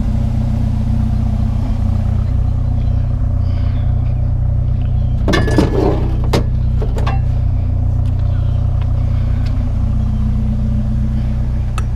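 Truck engine idling steadily, with a cluster of clanks and knocks from scrap being handled about halfway through and a few single knocks later.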